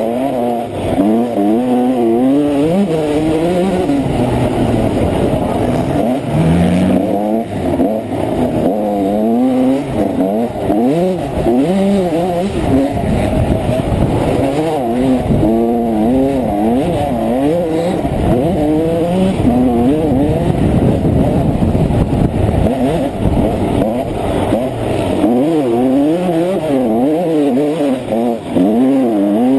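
Honda CR125 two-stroke single-cylinder motocross engine revving up and falling back again and again, rising in pitch as it accelerates and dropping on gear changes and when backed off, heard up close from an onboard GoPro.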